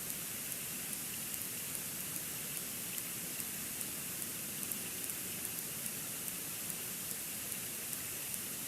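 Steady hiss of falling snow on an outdoor nest-cam microphone during a snowstorm, with faint light ticks about two or three times a second.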